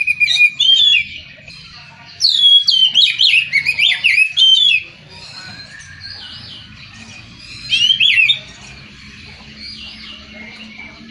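Oriental magpie-robin (kacer) singing: three loud phrases of fast, sweeping whistled notes, the longest lasting about two and a half seconds, with fainter chirps between them.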